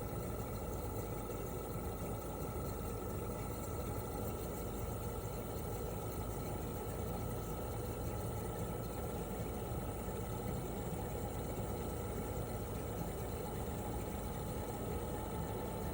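1997 Toshiba RAS-285BAD air-conditioner outdoor unit running in cooling mode: its twin rotary compressor and propeller fan give a steady hum with a thin, steady high whine over it.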